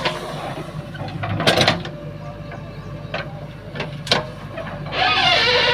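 JCB 3DX backhoe loader's diesel engine running steadily under work, with sharp metallic clanks of the bucket and arm three times. A wavering high-pitched cry cuts in near the end.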